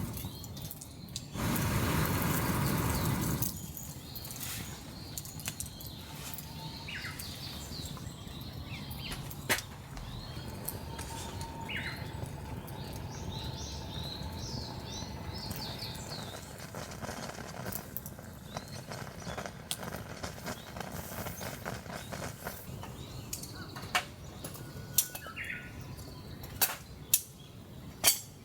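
Birds chirping over a steady outdoor background hiss, with a loud burst of rushing noise in the first few seconds and a series of sharp clicks and knocks near the end.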